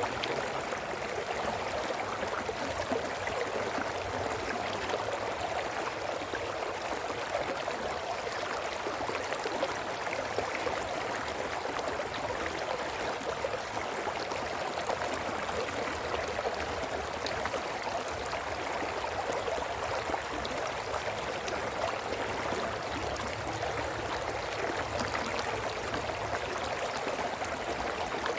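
Brook flowing over stones: a steady babbling and gurgling of running water.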